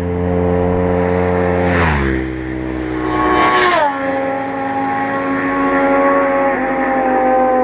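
Sport motorcycles passing at speed, their engine notes held steady and then dropping sharply in pitch as each goes by, twice, about two seconds apart, with a brief rush of air at each pass.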